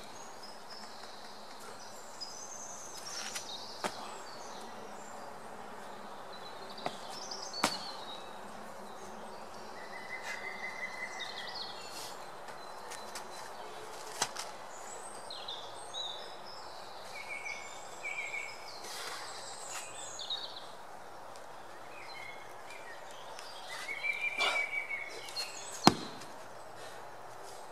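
Outdoor ambience: birds chirping on and off over a steady background hiss, with a few sharp knocks, the loudest near the end.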